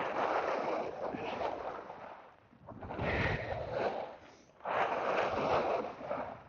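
Skis scraping across icy hard-pack in three loud rasping swells, one per turn, with quieter stretches between them where the edges reach softer snow. The racket is the sign of ice under the skis.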